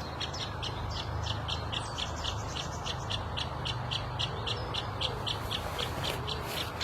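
A bird calling the same short, high note over and over, about four times a second without a break, over a low steady hum.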